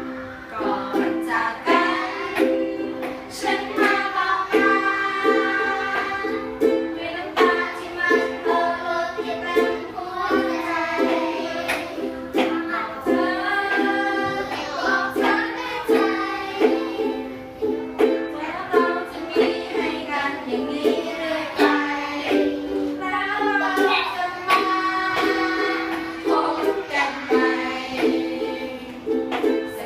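A song sung to strummed chords on a small plucked string instrument, the voice carrying the melody over a steady strumming rhythm.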